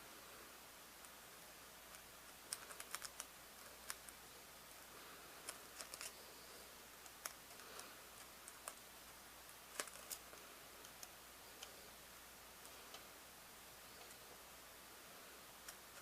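Faint, irregular small clicks and taps over a low hiss, as the parts of a VHS cassette are handled during a repair.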